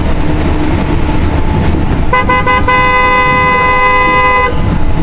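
Vehicle horn tooting: a few short quick toots, then one long held honk that stops about four and a half seconds in, over a steady low engine rumble.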